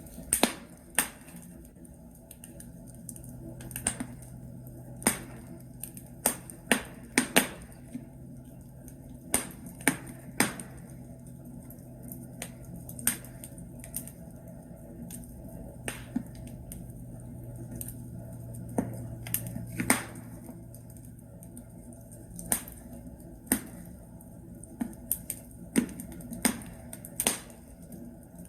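Burning logs crackling in a fireplace: irregular sharp pops and snaps, some close together and some a few seconds apart, over a low steady hum.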